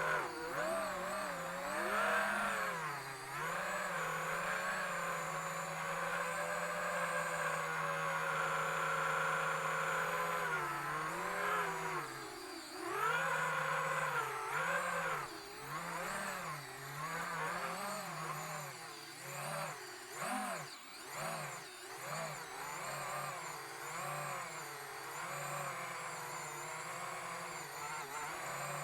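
Brushless motors of an FPV quadcopter (Emax Eco II 2306, 1900kv) whining, their pitch rising and falling over and over with the throttle, with a few brief dips. The owner hears one motor stumbling here and suspects an ESC desync.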